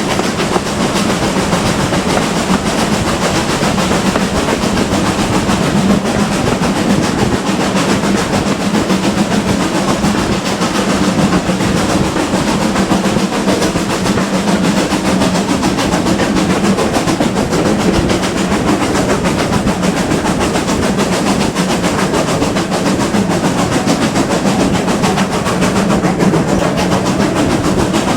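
A steam-hauled train of a GWR Manor class locomotive on the move: a steady, loud running rumble of wheels and engine that never lets up.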